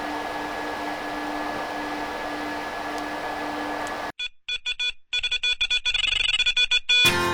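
A steady hum with fixed tones runs for about four seconds, then cuts off abruptly. A choppy, stuttering run of electronic beeps follows, and guitar music comes in just before the end.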